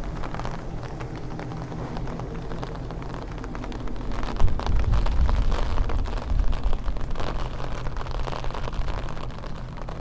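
A deep rumble that swells about four seconds in and rolls on for several seconds, over a steady low hum of street traffic.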